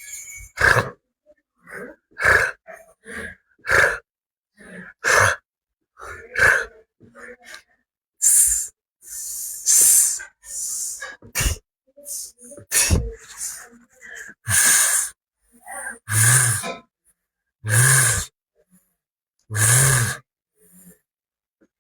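A man voicing isolated phonics letter sounds one after another, short breathy and hissing consonant sounds with brief pauses between them, and a few louder voiced syllables near the end.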